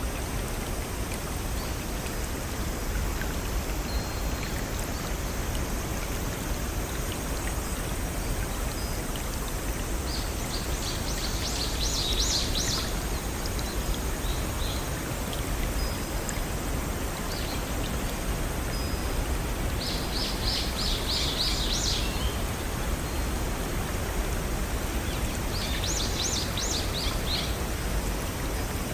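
Small waterfalls and a brook running steadily, with a bird singing three short phrases of rapid repeated high notes, about ten, twenty and twenty-six seconds in.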